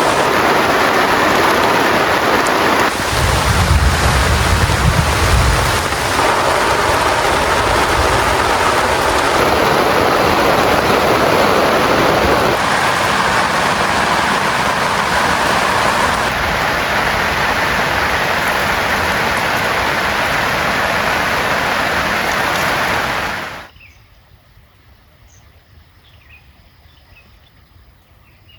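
Heavy rain pouring, a dense steady hiss, with a low rumble a few seconds in. The rain cuts off abruptly about three quarters of the way through, leaving quiet with a few faint high chirps.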